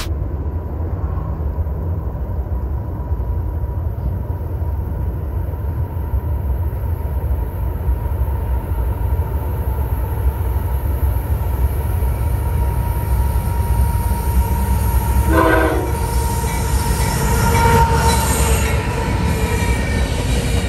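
Freight train hauled by CSX diesel locomotives approaching, with a low rumble throughout. A short train horn blast comes about fifteen seconds in, then more horn and engine noise as the locomotives draw level near the end.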